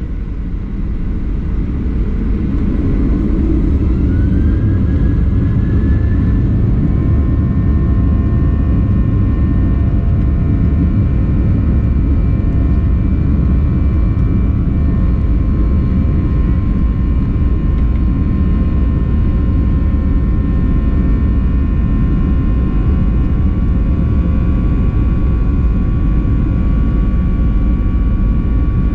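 Boeing 737-800's CFM56-7B jet engines spooling up to takeoff thrust, heard from inside the cabin. The low rumble builds over the first few seconds while a whine rises in pitch, then the engines hold a steady loud rumble with steady whining tones above it.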